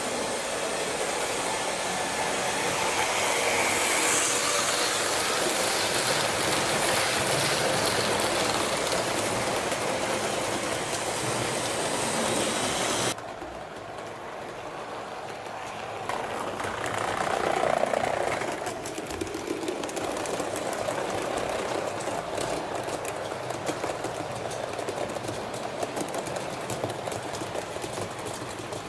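Train running on rails with a steady rattle of wheels over track. It cuts off abruptly about 13 seconds in and is followed by a quieter run of the same sound that swells briefly near 17–18 seconds.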